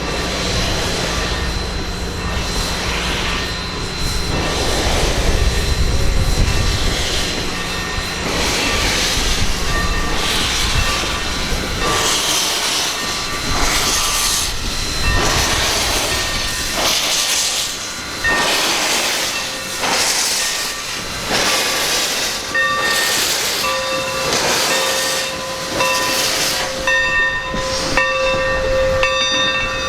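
AT&SF 2926, a 1944 Baldwin 4-8-4 steam locomotive, working with a low rumble and steady exhaust chuffs about once a second. A steady tone of several pitches comes in over the last few seconds.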